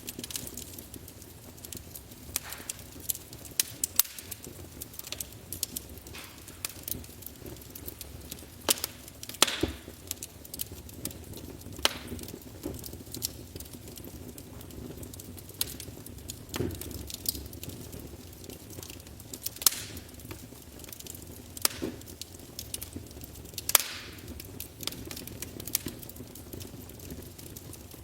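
Wood fire crackling in a fireplace: irregular sharp pops and snaps, a few louder ones, over a low steady rush.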